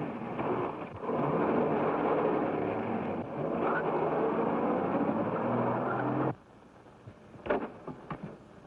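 Engine running steadily on an old film soundtrack, then cutting off abruptly about six seconds in, followed by a few faint knocks.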